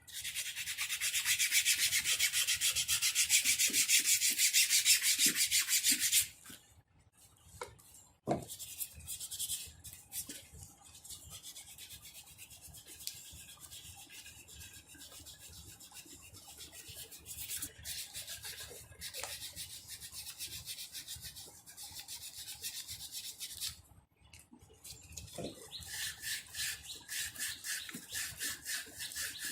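Rapid back-and-forth abrasive rubbing on an engine starter part by hand, a dense scratchy hiss of quick strokes. It is loud at first and stops after about six seconds. Fainter strokes follow with a couple of short knocks, and it picks up again near the end.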